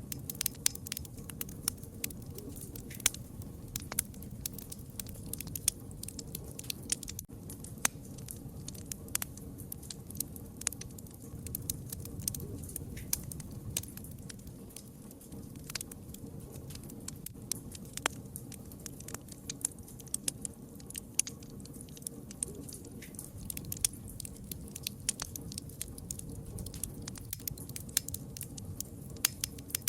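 Wood fire crackling steadily, with many sharp irregular pops and snaps over a low, soft rumble of the flames.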